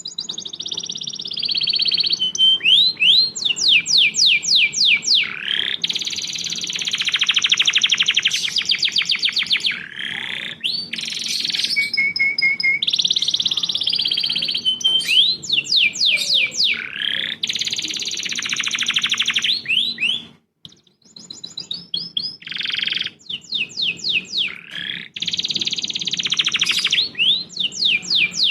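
Songbird song for bird tutoring: runs of rapid, sharp downward-sweeping notes alternating with long, fast rolling trills. There is a brief break about twenty seconds in.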